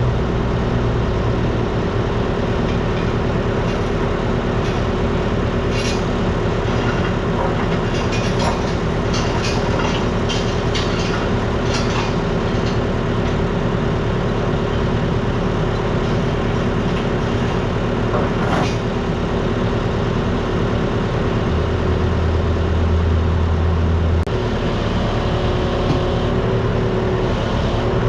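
Diesel engine running steadily, a continuous heavy drone, with scattered light clicks and rattles over it in the first half.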